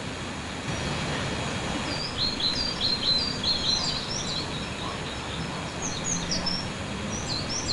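Small birds chirping in quick, repeated short notes over a steady outdoor background hiss, the chirping getting busier from about two seconds in.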